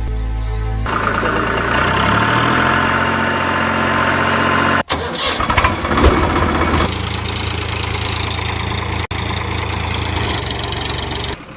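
Tractor engine running steadily, in several segments that change abruptly about five seconds and nine seconds in.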